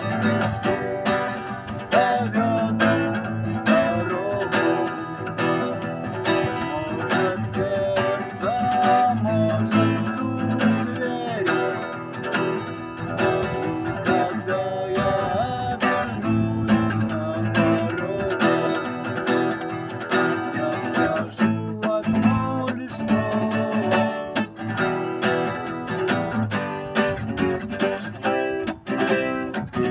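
Instrumental music: an acoustic guitar strumming chords in a steady rhythm, with a melody line over it.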